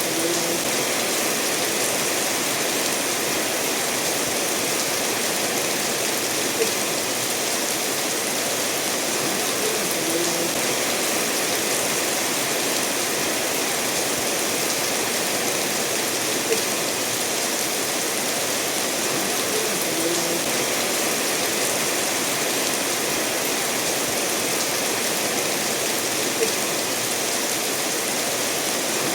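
Steady rainfall mixed with a stream flowing over stones: an even, unbroken wash of water noise. Short faint ticks recur every few seconds.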